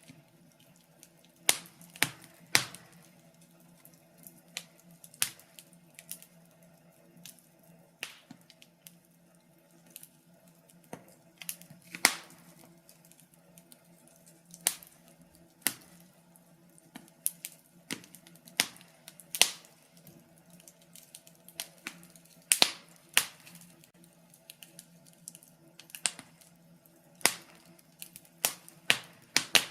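Wood fire crackling in a fireplace: irregular sharp pops and snaps of burning logs, some loud and single, others in quick little clusters, over a faint steady low hum.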